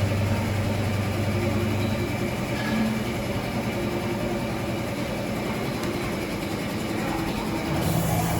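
Automatic woodworking bevel-cutting machine running with a steady mechanical hum, stronger for the first two seconds; near the end the hum changes pitch and a hiss rises.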